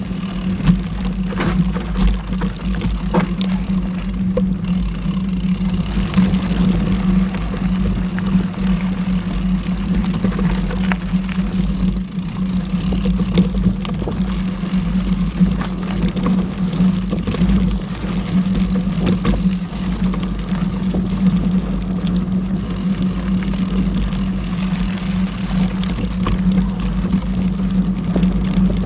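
Mountain bike being ridden over a dirt trail: a steady hum and low rumble, with frequent rattles and knocks as the bike goes over bumps.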